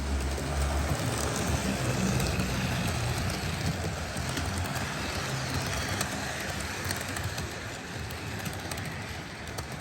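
Model train running along the layout's track: a steady rumbling whir of motor and wheels, louder over the first few seconds and then easing off, with a few light clicks.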